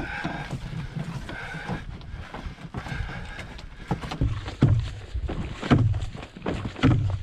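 Footsteps on a forest portage trail with the knocks and rattles of a carried canoe and packs, a string of irregular thumps that grow heavier in the second half.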